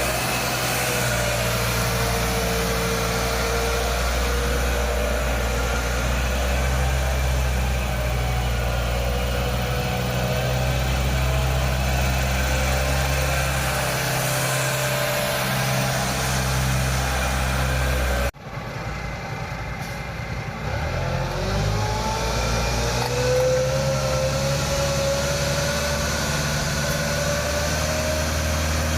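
Engine of a 3.5-ton all-terrain forklift running steadily. The sound cuts off suddenly about 18 seconds in, and the engine comes back with a pitch that climbs as it revs up.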